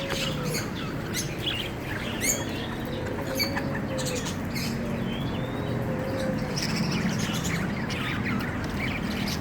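Budgerigar chattering: a continuous run of short, high chirps and warbles.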